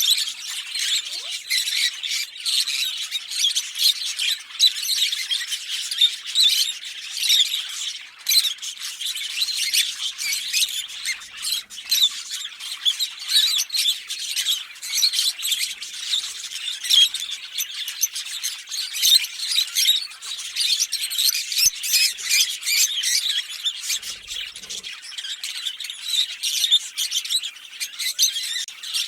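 A pair of Fischer's lovebirds chirping and chattering continuously, a dense run of rapid, high-pitched squeaky notes with no pauses.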